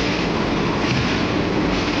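Watarase Keikoku Railway diesel railcar running along the track: a steady rumble of wheels and engine, with a brief brighter hiss about a second in and again near the end.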